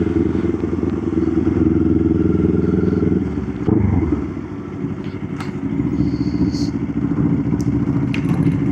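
Motorcycle engine running steadily under way, easing off about three and a half seconds in and then picking back up.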